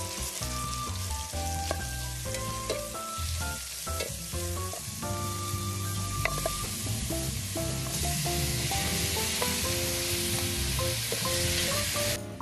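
Stir-fry sizzling in a hot pan, a little louder about eight seconds in, with background music over it.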